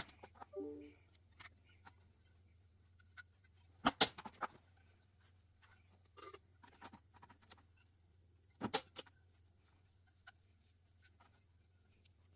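Sparse light clicks and clatters of small metal engine parts and tools being handled during assembly. The louder clusters come about four seconds in and again near nine seconds.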